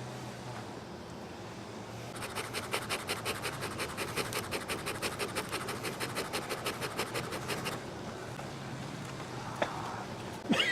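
Rapid, even back-and-forth scraping, about five strokes a second for some five seconds, of a hive tool working against the wooden bars of a top bar hive as it is opened. A single click comes near the end.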